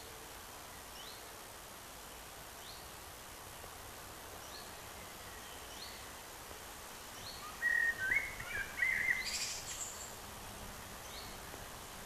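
Small birds calling by a pond: a short high chirp repeated roughly once a second, and a louder burst of warbling chatter about eight to nine seconds in, over a steady faint hiss.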